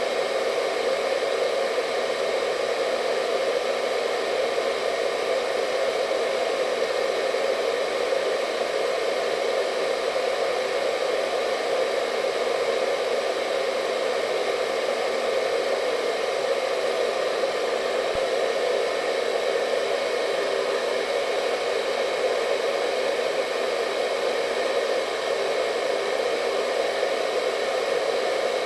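Hair dryer running steadily: a constant blowing hum, strongest in the low midrange, with a faint steady whine above it and no changes.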